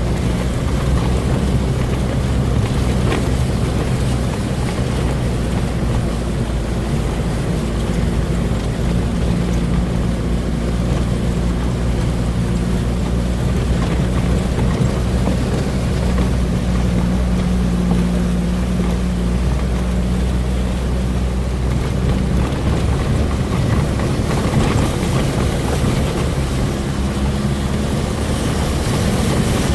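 A boat's engine running steadily under way, over a rush of wind and water noise.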